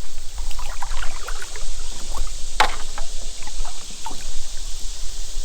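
Small boat on a river: water splashing and lapping with scattered light knocks against the hull, one sharp knock about two and a half seconds in, over a steady high hiss.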